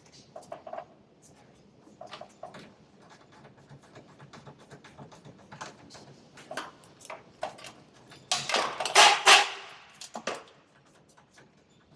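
Scattered light clicks and metallic clinks of tools and metal parts being handled, with one louder noisy burst lasting about a second, starting a little after eight seconds in.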